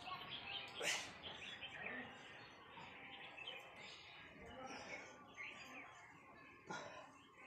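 Birds chirping over and over, with a brief sharp noise about a second in and another near the end.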